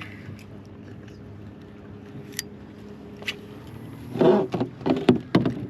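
Steady low hum of a boat motor on the water, with a few sharp clicks, and a louder, uneven stretch of sound from about four seconds in.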